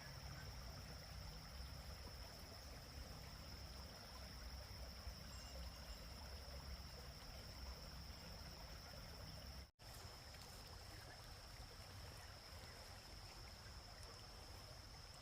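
Faint, steady background ambience with a constant high-pitched thin tone over a low rumble; the sound drops out for an instant about ten seconds in.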